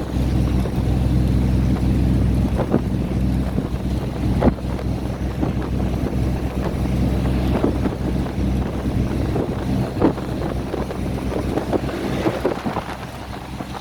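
Diesel train running: a steady low engine drone with scattered clanks and knocks. The deepest part of the drone eases off in the last few seconds.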